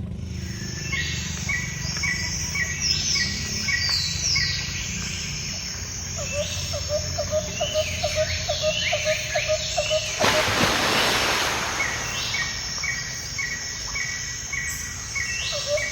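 Birds chirping and calling over a steady low outdoor rumble. A row of quick short notes runs midway, and a burst of hiss comes about ten seconds in.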